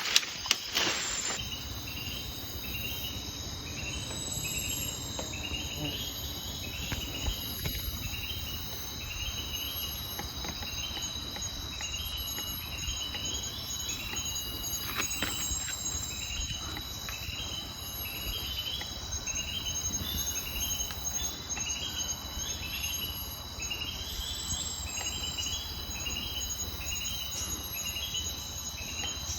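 Insects calling: a short chirp repeating about every second and a half over a steady high drone, with a low rumble underneath.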